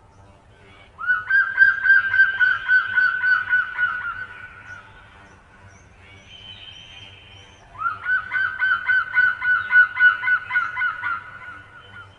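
A bird giving two long bouts of rapid, honking repeated notes, about six a second, each bout lasting three to four seconds, with a short pause between them. Fainter high chirps from another bird come in the gap.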